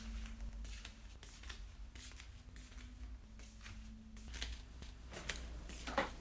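Hands handling things at close range: irregular rustling with light clicks and taps, over a steady low hum.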